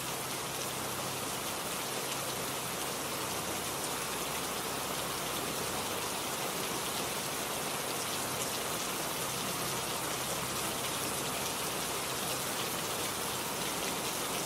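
Steady rain falling, an even hiss and patter with no change throughout.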